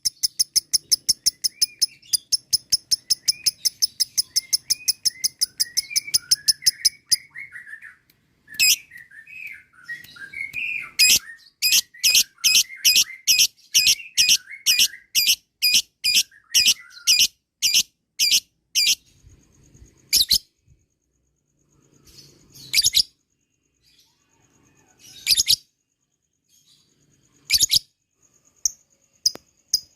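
Lovebirds calling: long runs of sharp, rapidly repeated high notes, the chattering 'ngekek' trill, over softer twittering. The trill runs fast at first, breaks off, then returns at a slower, steadier pace. Scattered single loud calls follow in the last third.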